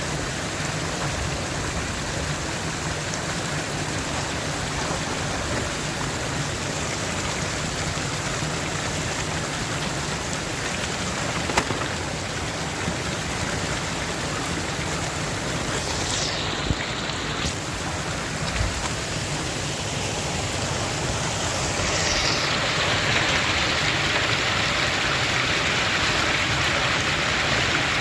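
Steady rushing of water, an even hiss that grows louder and brighter about three quarters of the way through. A couple of brief clicks cut through it near the middle.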